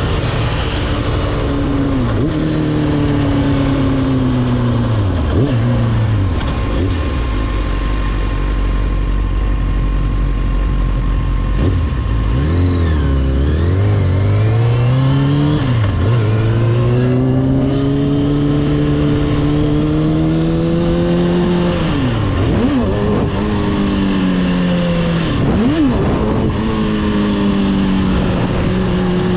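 Motorcycle engine under way, its pitch climbing and dropping again and again as it revs through the gears, with several sharp dips and recoveries, over a steady rush of wind noise.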